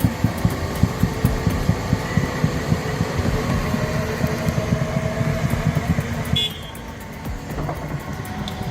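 Heavy excavator diesel engine working hard, with a fast low clatter and a faint steady whine over it. The sound drops and changes suddenly about six and a half seconds in.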